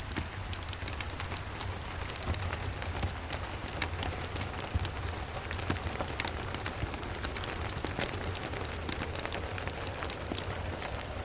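Steady rain mixed with a wood fire's scattered sharp crackles and pops, over a low steady rumble.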